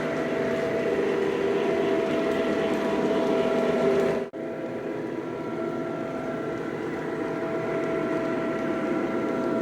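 Lionel Legacy Southern E6 O-gauge model diesel running on track: a steady hum of motor and wheels with the steady tones of its onboard diesel engine sound. It breaks off abruptly for an instant about four seconds in, then carries on.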